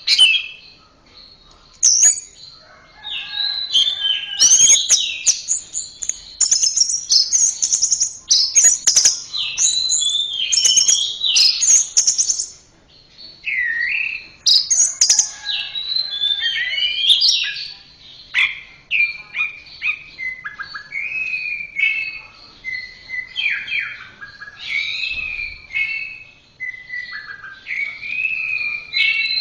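Orange-headed thrush (anis merah) singing a long, varied run of quick whistled and chattering phrases, with short pauses about a second in and near the middle.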